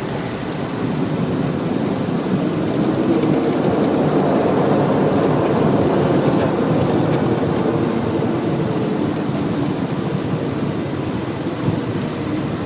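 Cockpit noise of a Cessna Citation Encore during landing: a steady roar of jet engines and rushing air that swells about two seconds in, is loudest a few seconds later, then eases slightly.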